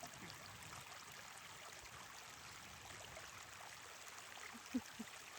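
Faint steady rush of running water, like a mountain stream, with a brief short sound just before the end.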